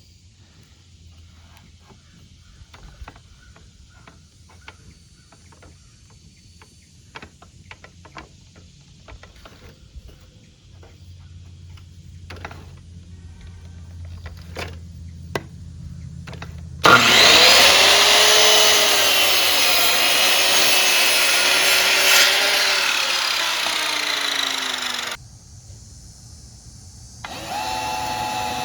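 Power saw cutting a 2x4: it starts suddenly, runs loud for about eight seconds with its pitch sagging toward the end of the cut, then stops abruptly. Faint scattered clicks of handling lumber come before it, and a machine starts again near the end.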